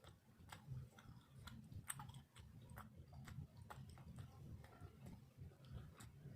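Close-up chewing with soft, wet mouth clicks and smacks, scattered and irregular: a person eating.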